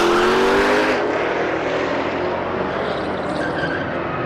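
Hemi V8 drag cars accelerating hard down the strip at full throttle, the engine note rising in pitch; about a second in the sound turns duller as the cars pull away.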